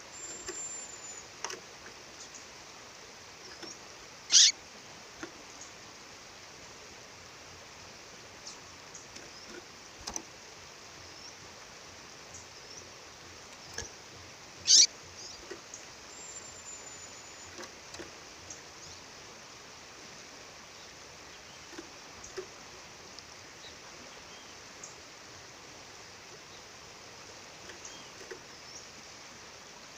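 Female bird calling over the steady rush of a waterfall: two loud, sharp chirps that sweep downward, about ten seconds apart, with faint soft chirps in between.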